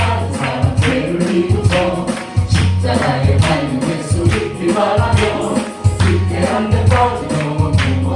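Christian praise music played by a band, with a steady beat over a sustained bass line.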